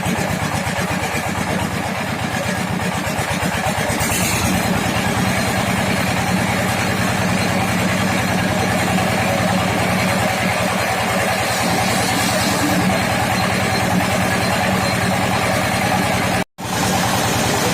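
Engine of a wood-cutting sawmill running steadily at an even speed. A brief hiss comes about four seconds in, and the sound drops out for a moment near the end.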